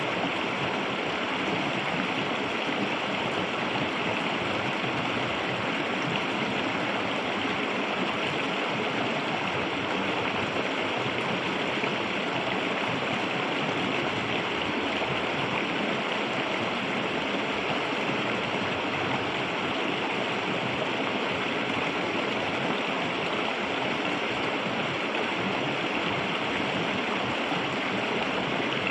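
A clear, shallow river flowing and babbling over stones, a steady rush of water.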